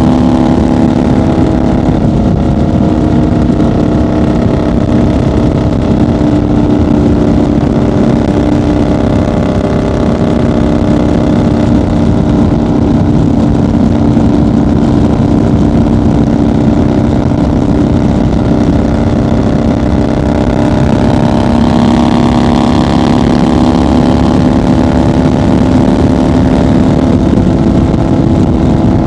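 1990 Harley-Davidson FXR's Evolution V-twin running steadily at highway cruising speed. The engine note lifts slightly about twenty seconds in.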